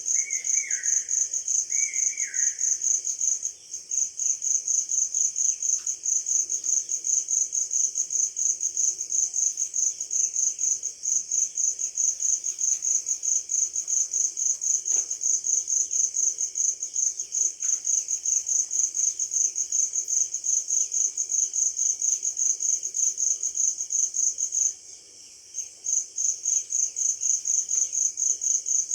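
An insect, cricket-like, chirping in a loud, high, rapid and even pulsed trill that stops briefly a few seconds in and for about a second near the end. Faint bird calls sound beneath it, three short falling notes near the start.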